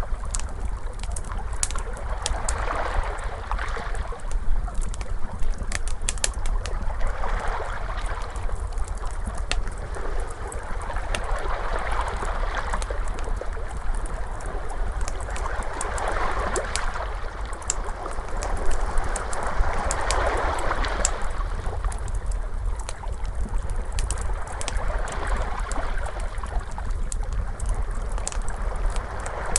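Ocean waves washing in and out in slow swells every four or five seconds, mixed with the irregular snaps and crackles of a wood fire, over a steady low rumble.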